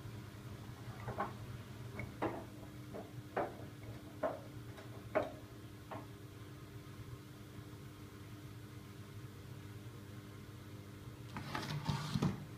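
Siemens iQ700 washing machine running its wash cycle: a steady low motor hum with soft knocks about once a second in the first half as the drum turns the load, and a louder swish near the end.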